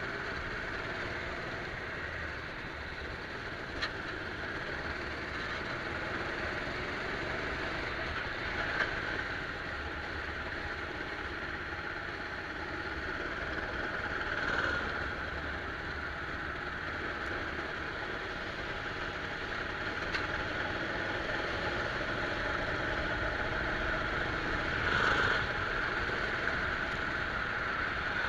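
Rental kart engine running steadily, heard from an onboard camera, with brief louder swells about halfway through and again near the end.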